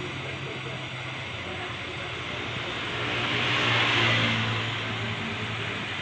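Gas brazing torch hissing steadily as a refrigerator pipe joint is brazed, swelling louder a few seconds in, over a low steady hum.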